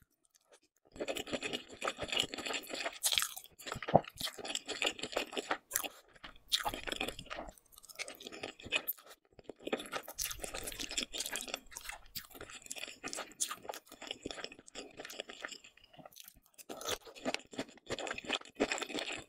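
Close-miked chewing of saucy noodles with sausage: wet, crackly mouth sounds in bursts with short pauses between, and one sharp click about four seconds in.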